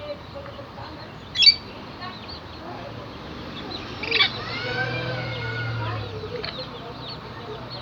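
Several caged exotic birds chirping, with loud harsh squawks about a second and a half in and again about four seconds in, the second followed by a longer wavering call.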